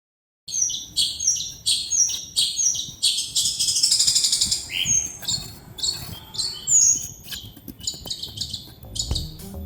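Birds chirping, starting about half a second in: short repeated high calls about two a second, breaking into a rapid trill about three seconds in, then scattered chirps.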